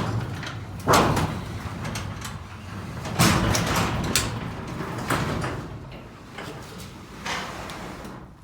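Sectional garage door moving down its tracks, rattling continuously with several loud clunks, then falling quiet near the end as it comes to rest. The door is unbalanced after a torsion spring cable replacement and closes unevenly, one side sitting higher than the other.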